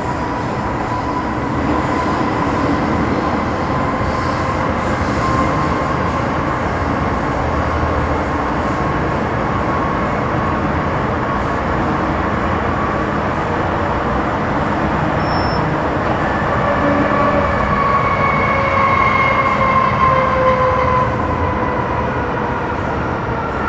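Interior running noise of an MTR Metro Cammell M-Train with GEC GTO chopper traction: steady wheel and track noise under a whine of several tones from the traction equipment. In the last several seconds the whine glides down in pitch as the train slows on the approach to its stop.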